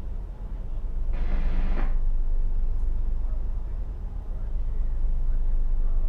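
A ship's engine runs steadily with a low rumble. About a second in, a short burst of hiss-like noise lasts under a second.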